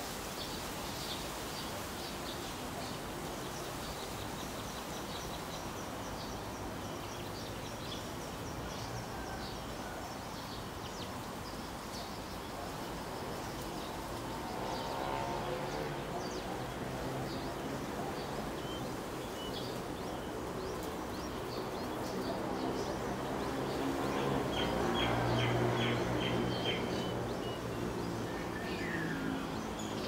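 Small birds chirping in short, high, thin notes over a steady outdoor background noise. A low droning hum swells about halfway through and again, louder, in the later part.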